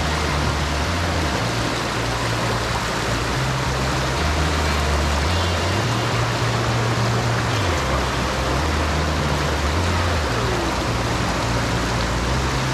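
Steady rushing water of a waterfall, with the low notes of a background music bass line changing every second or so beneath it.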